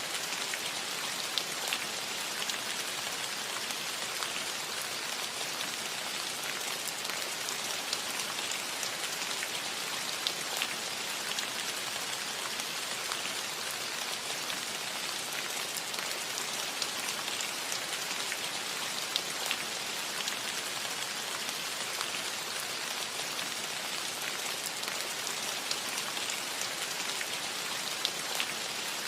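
Steady rain falling on a cottage roof: a dense, even hiss with many single drops ticking sharply through it.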